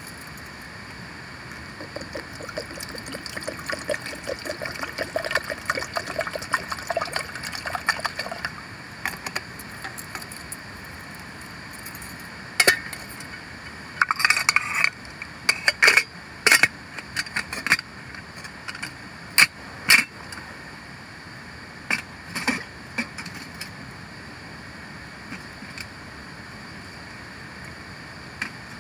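Water pouring into a pot for bush coffee for several seconds, then a series of sharp metallic clinks and knocks, over a steady background rush of water.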